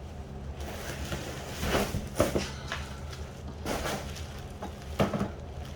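Cardboard box and plastic packaging being handled during an unboxing, rustling and scraping in about five short bursts, over a steady low hum.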